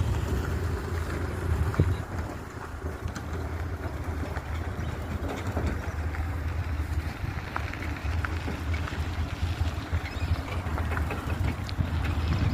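Steady low rumble of highway traffic, with wind noise on the microphone.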